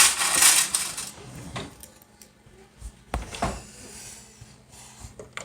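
Kitchen handling sounds: a loud rustling or scraping clatter in the first second, then a low thump a little after three seconds in, and a few light clicks.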